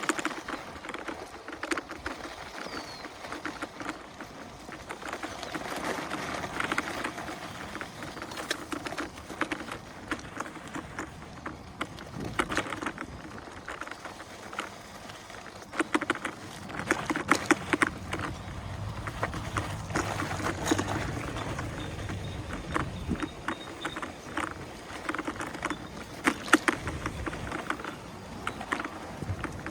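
InMotion E20 electric unicycle rolling along a dirt single-track: tyre noise over the trail with many small irregular clicks and ticks from grit and twigs under the wheel, thicker in the middle and near the end.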